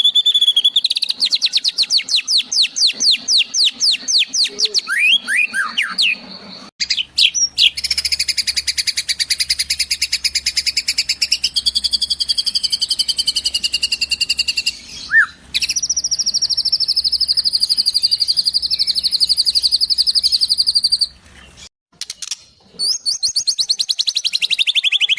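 Rapid, high-pitched bird trills and rattling call series from a birdsong training recording of sparrow and kingfisher calls, in several spliced segments that change abruptly, with a brief silent gap near the end.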